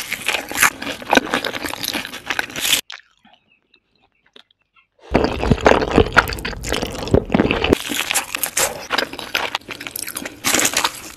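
Crunching bites into a breaded, fried cordon bleu cutlet and close-up chewing, in two stretches with a pause of about two seconds between them.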